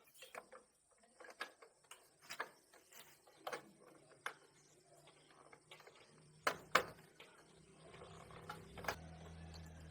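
Scattered light clicks and taps of hand tools on motorcycle parts, two louder knocks close together about six and a half seconds in, with a low steady hum that comes in after about six seconds.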